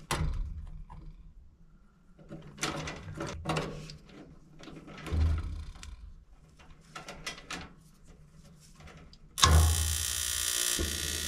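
Light clicks, taps and rattles of hands and tools working at a gas furnace's control wiring, then about nine and a half seconds in a sudden loud buzz that runs on.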